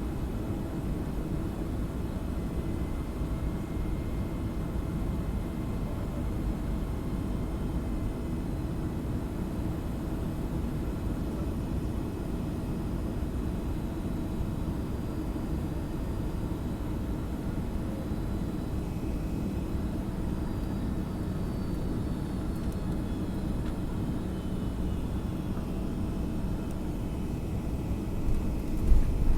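Steady cabin noise of a Boeing 757-300 in flight: a low rumble of engines and airflow, with faint steady tones over it. Near the end a sudden, louder jolt and rumble sets in.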